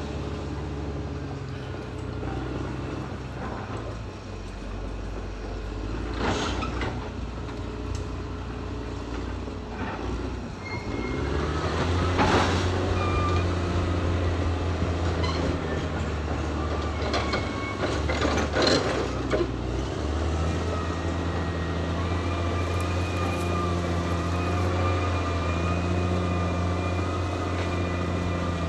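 Caterpillar D6R XL crawler bulldozer working, its diesel engine running steadily and pulling harder partway through. Steel tracks clatter and squeal, with three loud metallic clanks.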